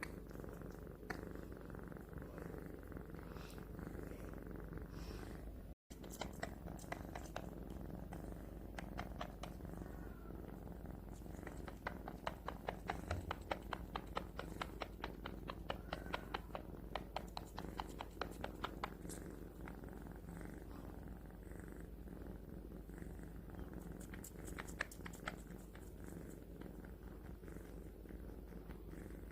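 Kitten purring steadily while suckling on a person's hand, with a run of rapid, regular wet sucking clicks, densest through the middle.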